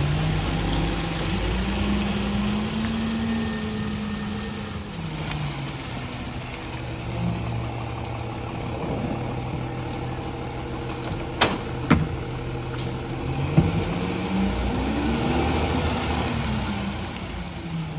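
Garbage truck engine revving up and settling back twice, with a few sharp clanks in between.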